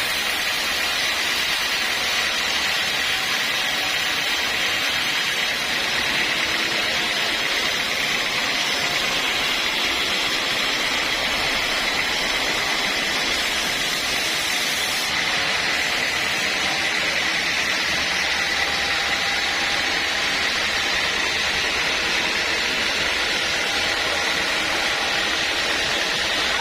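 Sawmill machinery running steadily: a constant high whine over even mechanical noise, with no pauses or changes in load.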